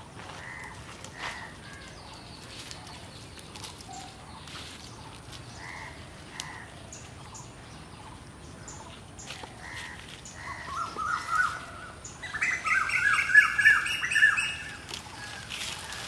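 Birds calling: a few soft chirps in pairs, then, about ten seconds in, a loud burst of rapid harsh squawks lasting about four seconds.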